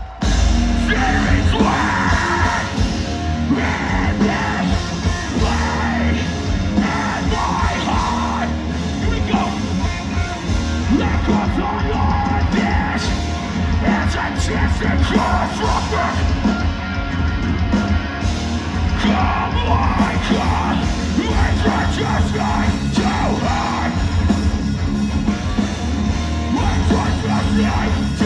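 Live metalcore band playing at full volume: distorted guitars, heavy bass and drums, with screamed vocals over them.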